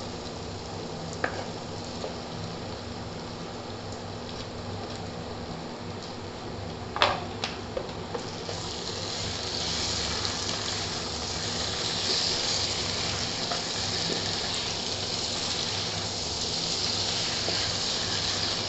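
Raw chicken pieces sizzling in hot oil with sautéed onions in a non-stick wok as they are stirred with a wooden spatula. The sizzle grows louder about eight seconds in, a few sharp knocks come just before, and a steady low hum runs underneath.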